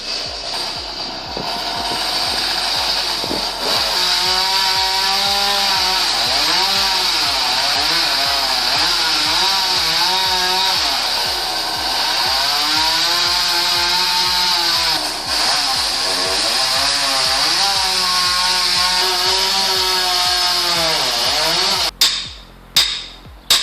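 Chainsaw engine running and cutting, its pitch rising and falling again and again as it revs under load. It stops abruptly near the end and is followed by a series of sharp knocks.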